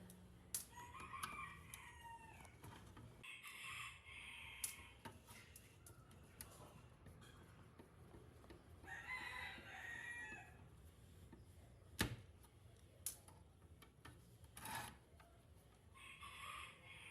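Chickens calling, four calls of about a second each with a few sharp knocks in between.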